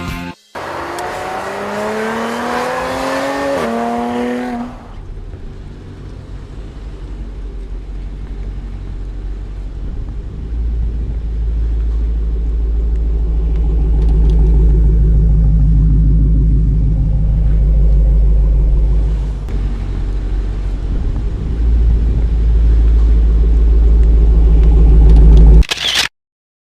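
Dodge Challenger test car's V8 engine with a low, steady burble that grows louder partway through and cuts off suddenly near the end. The engine is believed to be the new supercharged Hellcat V8. The burble opens after a few seconds of a sound rising in pitch.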